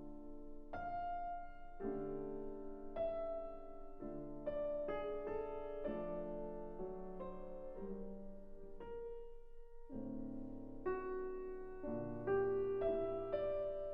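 Slow, gentle piano music: single notes and chords, with new notes struck every half second to a second.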